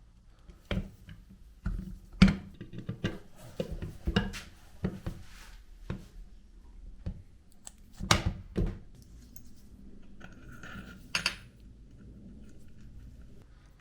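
Metal parts clinking and knocking against each other and a hard work surface: about a dozen irregular sharp impacts with short ringing tails, the loudest about two seconds in and again about eight seconds in.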